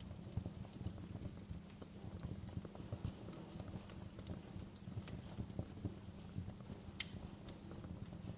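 Wood fire crackling in a fireplace: a steady stream of small crackles over the low rumble of the burning fire, with one sharper pop about seven seconds in.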